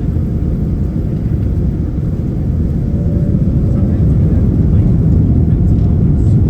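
Boeing 787 jet airliner's engines during takeoff: a steady low rumble that slowly grows louder, with a faint steady tone above it.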